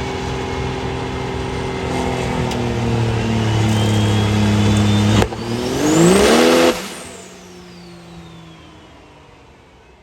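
Diesel truck engine making a dyno pull: the revs climb with a rising whine, dip suddenly about five seconds in at a gear change, then climb steeply to the loudest point. Near seven seconds the throttle is released and the whine glides down as everything winds down.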